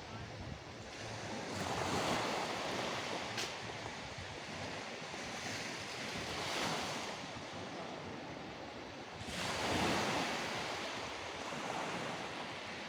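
Sea waves washing onto a shore, swelling three times about four seconds apart over a steady hiss of surf.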